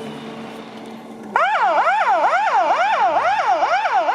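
Fire engine's electronic siren switching on suddenly about a second in and yelping fast, about three rising-and-falling sweeps a second, over a steady low engine hum.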